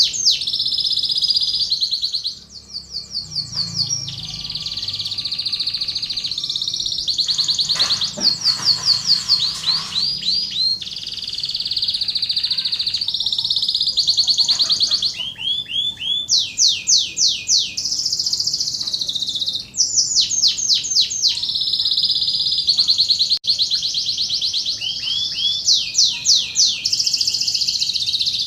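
Domestic canary singing a long unbroken song, high-pitched, made of fast trills and runs of quickly repeated sweeping notes that change from phrase to phrase.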